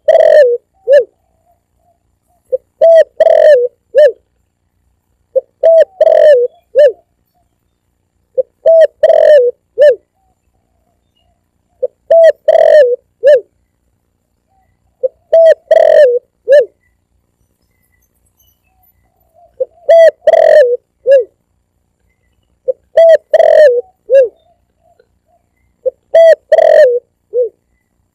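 Spotted dove (tekukur) cooing, played as a hunter's lure call: a short phrase of three to five low coos, repeated about every three seconds, with one longer pause about two-thirds of the way through. The calls are very loud and sound clipped.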